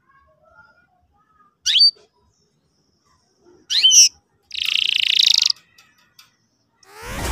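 Domestic canary calling: a short sweeping chirp about two seconds in, a sharper double chirp near four seconds, then a buzzy rapid trill lasting about a second.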